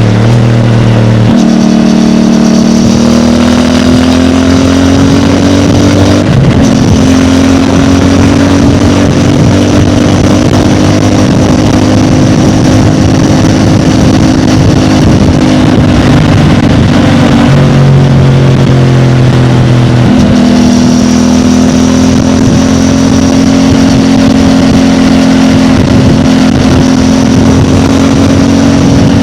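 CFMOTO 450MT parallel-twin engine running through its stock exhaust under way. The engine note steps up about a second in and holds fairly steady, drops for a couple of seconds about two-thirds of the way through, then rises again.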